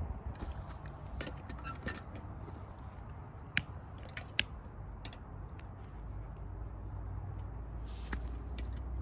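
Firewood snapping and crackling: scattered sharp pops, two loud ones a little under a second apart about midway, over a low steady rumble.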